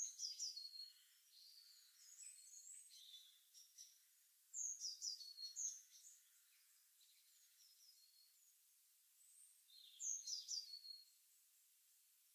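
Faint birdsong: three short phrases of quick, high chirping notes about every five seconds, with softer chirps between them.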